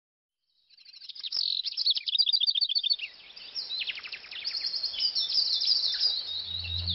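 Small birds chirping in fast runs of high notes, the first starting about a second in and a second run around three and a half seconds in. A low droning tone comes in near the end.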